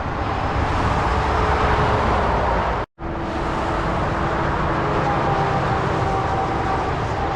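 Motorway traffic going past: a continuous rush of tyre and engine noise from lorries and cars, with faint steady engine tones. The sound cuts out for a split second just before three seconds in, then the traffic noise resumes.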